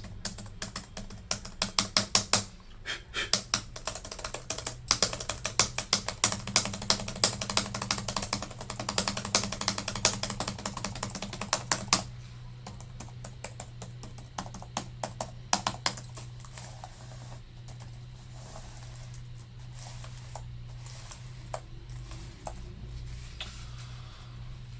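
Laptop keyboard keys pressed rapidly and repeatedly, clicking densely for about twelve seconds, then a few scattered presses, over a low steady hum. These are keys that had been sticking from liquid damage, being worked after an alcohol cleaning.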